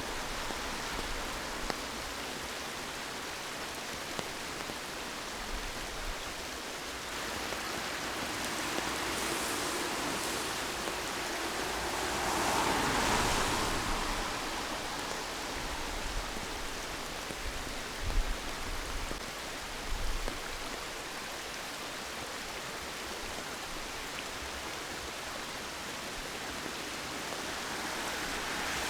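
Steady rushing wash of rain and running water. It swells louder about halfway through, and a couple of short low bumps come a few seconds later.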